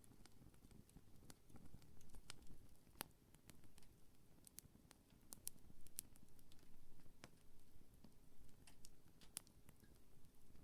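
Wood campfire burning, with scattered sharp crackles and pops of the burning wood over a faint low rumble of the flames.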